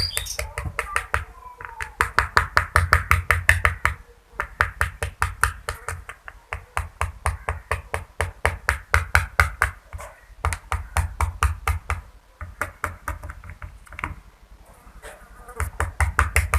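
Cockatiel tapping its beak rapidly against a hard surface: quick, even knocks at about six a second, in bouts of a few seconds with brief pauses between them.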